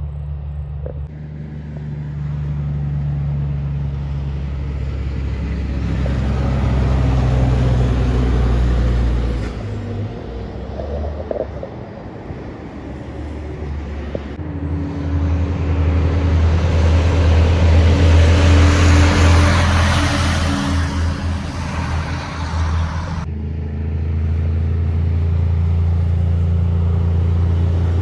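Kenworth trucks' diesel engines running as they pass one after another: a first truck for about the first third, then a louder pass with tyre noise building and fading around two-thirds in, and another truck's engine droning steadily near the end.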